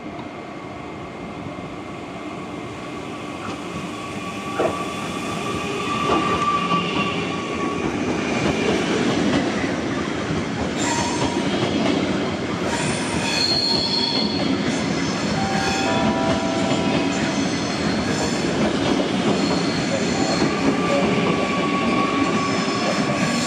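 ICE train rolling slowly along the station tracks, its wheels squealing on the rails in several thin, high tones that come and go. The rumble grows louder over the first several seconds and then holds steady.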